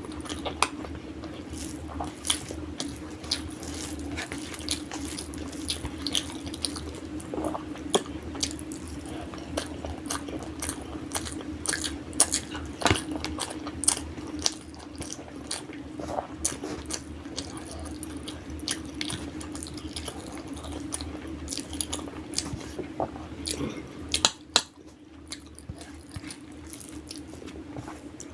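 Close-up eating sounds: chewing and wet mouth clicks while eating biryani and egg, with many irregular sharp smacks over a steady low hum.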